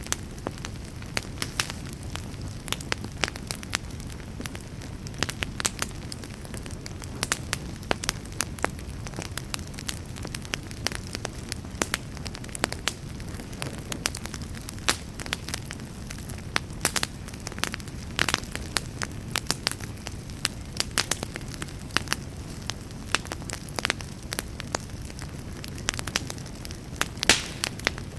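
Wood campfire crackling, with irregular sharp snaps and pops over a steady low rush.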